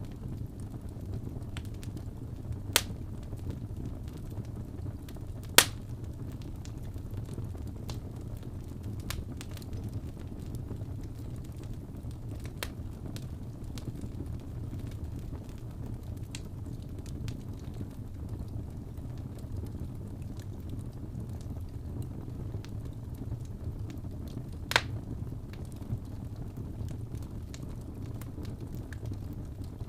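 Wood fire burning in a fireplace: a steady low rumble of the flames with scattered crackles and pops, three sharp loud pops about three, six and twenty-five seconds in.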